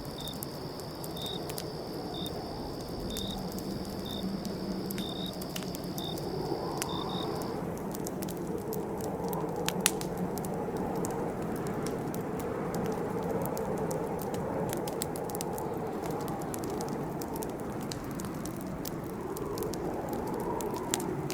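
Campfire crackling with scattered small pops and one louder pop about ten seconds in, over a steady low rustle of flames. A cricket's steady high trill with regular chirps runs beside it and stops about seven seconds in.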